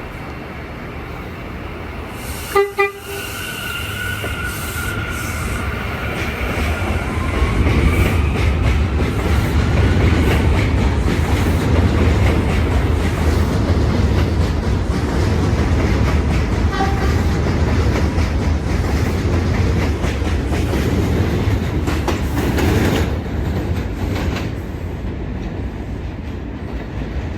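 R179 subway train departing a station: two short horn toots about three seconds in, then the motors' whine rising in pitch as it accelerates. Under the whine runs a steady low rumble and wheel clatter, which fade away near the end as the train pulls off.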